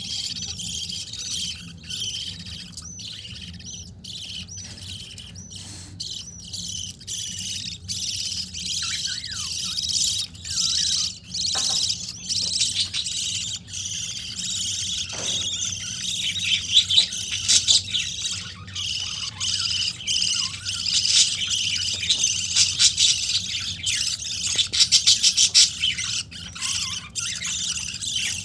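Pet budgerigars chattering and chirping: a steady stream of high chirps and warbles, with a faster run of rapid chirps near the end.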